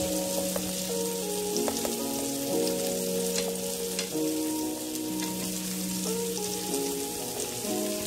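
Food frying and sizzling, with scattered sharp pops, over background music playing a slow melody of held notes.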